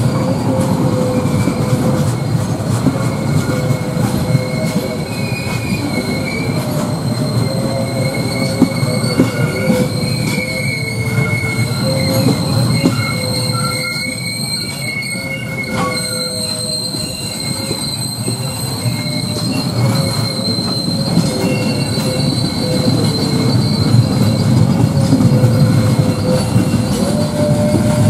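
Passenger carriages of a long-distance executive-class train rolling past, their steel wheels squealing in long, steady, high tones over the low rumble of wheels on rail. Now and then a wheel clacks.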